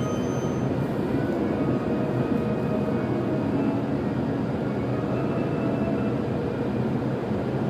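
E7-series Shinkansen train pulling slowly in alongside the platform: a steady rumble of the train with a few faint, thin tones over it.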